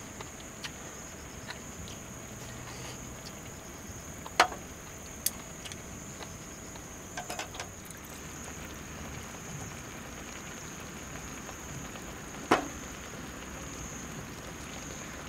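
Steady light rain pattering on a tent tarp, with a constant high-pitched insect trill from the grass. A few sharp clicks of tableware being handled cut through it, the loudest about four seconds in and again near the end, with a small cluster around the middle.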